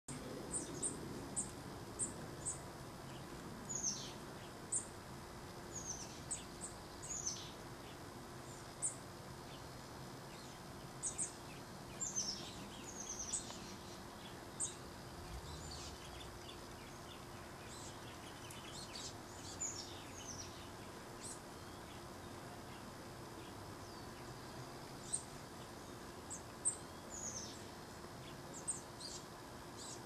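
Small songbirds calling: many short, high chirps and quick falling notes, bunched at the start and near the end with a sparser stretch in the middle, over a steady faint hiss and low hum.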